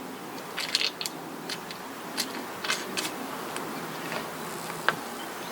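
Small metal clicks and clinks at an irregular pace as a washer, lock washer and wing nut are fitted onto the bolt through the saw blade and handle and tightened by hand.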